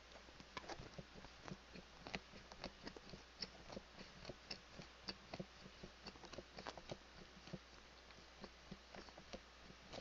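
A person chewing a bite of chicken close to a headset microphone: faint, irregular mouth clicks and smacks, several a second.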